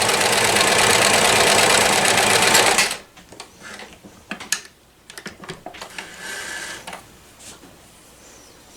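1994 New Home Limited Edition Model 108 sewing machine running steadily as it stitches, stopping abruptly about three seconds in. A few light clicks and a brief soft rustle follow.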